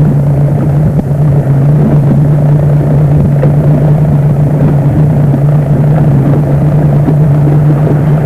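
Motorboat engine running at a steady speed, a constant low hum over rumbling wind and water noise.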